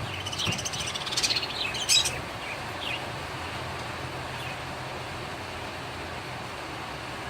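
Cockatiels chirping: a few short high calls and a raspy, rapidly pulsing call in the first two seconds, then only steady background noise with a low hum.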